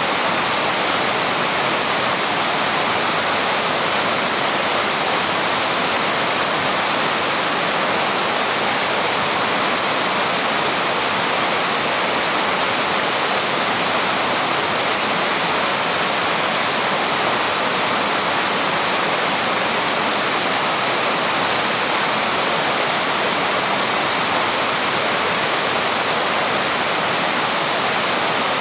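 Waterfall: water pouring and splashing over rocks, a steady, unbroken rushing with no change in level.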